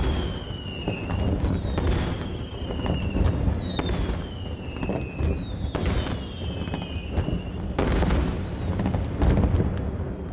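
Aerial firework shells bursting: sharp bangs about every two seconds over a dense, continuous low rumble of further explosions, with falling whistles between the bangs.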